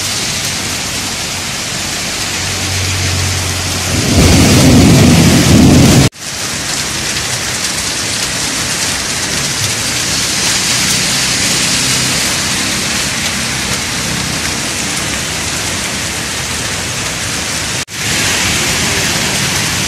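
Heavy tropical downpour: a steady hiss of rain falling on the street. About four seconds in, a loud low rumble lasts about two seconds. The sound breaks off sharply twice.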